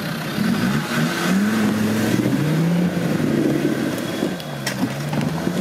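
Off-road 4x4's engine under throttle, its revs rising and falling unevenly as it works over an obstacle, with a sharp knock near the end.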